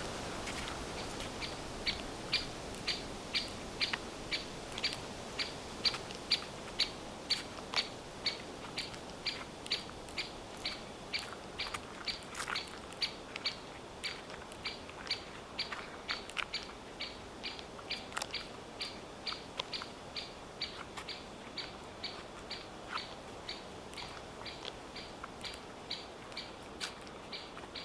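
A songbird repeating one short, sharp call note over and over, about two to three times a second, growing fainter over the second half.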